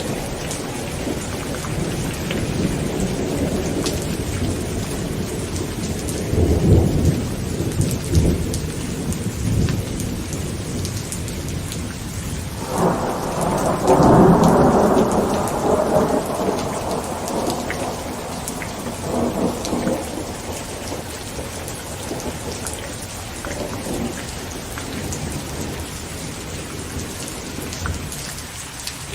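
Heavy rain falling steadily on a tent, with scattered drops ticking on the fabric and rolls of thunder. There is a low rumble about six seconds in, then a louder thunderclap about twelve seconds in that rumbles on for a few seconds, and fainter rolls after.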